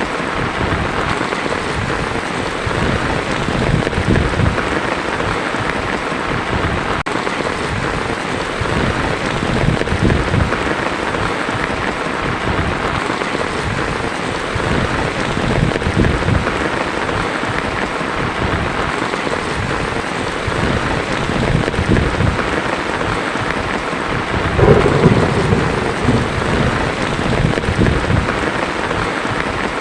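Heavy rain drumming steadily on a tin roof, with a roll of thunder rumbling up loudly about 25 seconds in.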